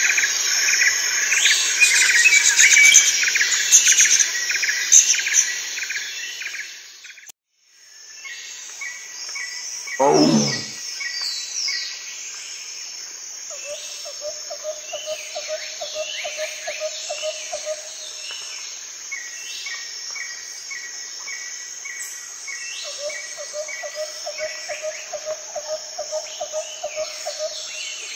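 Forest ambience of birds and insects calling. A dense chirping chorus cuts off abruptly about seven seconds in. After it come scattered bird calls, one loud call falling steeply in pitch about ten seconds in, and two bouts of a rapid trill.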